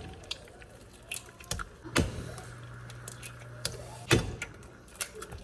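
Household handling noises: a series of clicks and knocks, two of them louder about two and four seconds in, with a low steady hum running between those two knocks.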